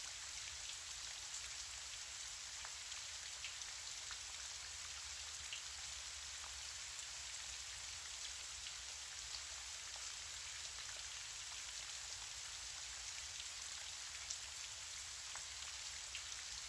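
Gentle rain falling steadily: a soft, even hiss with scattered faint ticks of individual drops.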